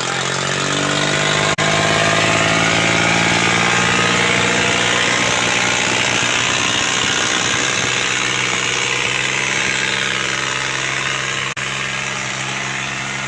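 Tractor diesel engine running steadily at high volume, the sound cutting out for an instant twice.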